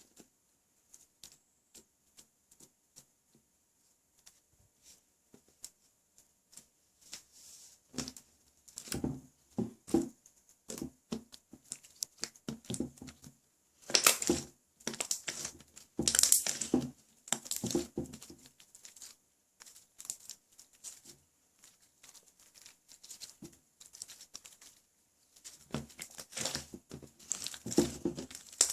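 White slime being squished and stretched by hand, giving irregular sticky crackles and clicks. Only a few faint clicks at first, then busier crackling from about a third of the way in, loudest around the middle.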